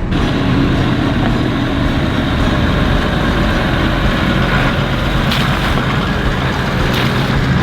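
Vehicle engine and road noise while driving, loud and steady.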